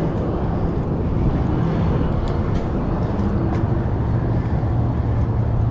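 Steady low rush of wind and rolling noise on the camera microphone of a road bike on the move, with a few faint ticks.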